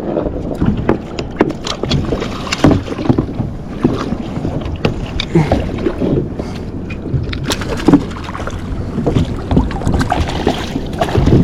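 Irregular knocks and clicks of handling on a fishing kayak, over a steady low rush of wind and water.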